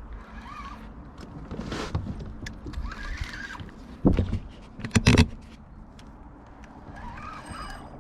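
A small pike being brought in alongside a kayak: rough splashing and handling noise, with two sharp loud knocks about four and five seconds in. A short call that rises and falls in pitch repeats a few times in the background.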